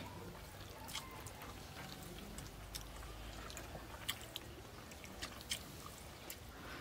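A person chewing a mouthful of rice and fish curry eaten by hand, with a few sharp mouth clicks scattered through.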